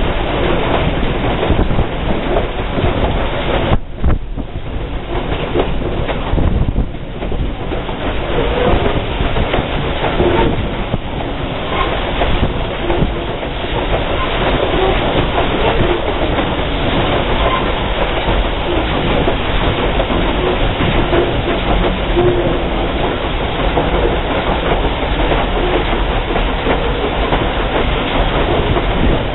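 Steam-hauled passenger train running steadily along the track, with the loud, constant noise of wheels rolling on rail.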